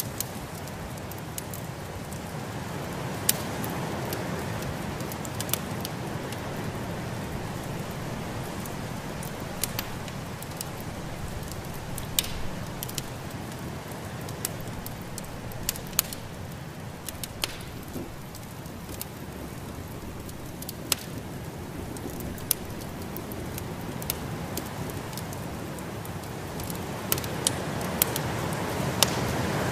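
Wood fire in a fireplace crackling, with irregular sharp pops, over the steady rush of snowstorm wind that swells gently now and then.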